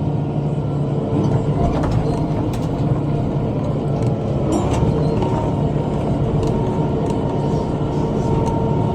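Tractor engine running steadily at a constant speed, with a thin steady whine on top of the drone.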